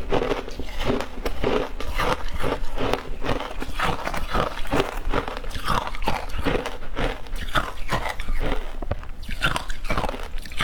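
A person biting and chewing shaved ice in a rapid, steady run of crunches, several a second.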